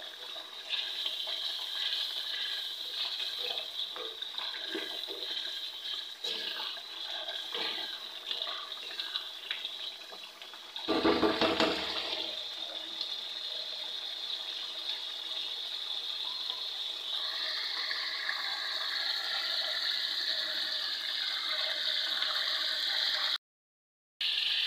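Beef karahi masala of yogurt and spices sizzling and bubbling in a karahi over a gas flame during the bhuna stage, with light scraping ticks of a wooden spatula stirring in the first half. A single louder thump about eleven seconds in.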